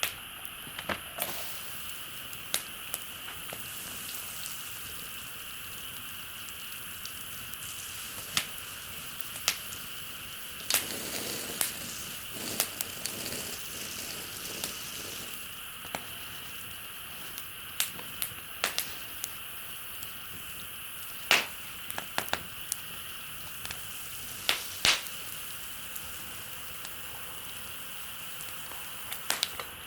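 Campfire crackling, with irregular sharp pops and snaps and a few louder pops in the second half, over a steady high-pitched hiss.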